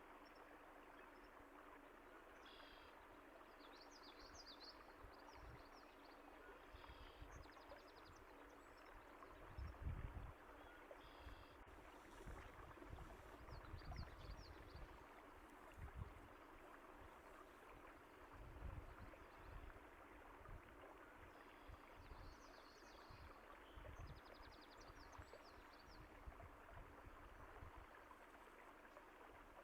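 Faint, steady running water from a stream, with scattered short bird chirps over it and occasional low thumps, the loudest about ten seconds in.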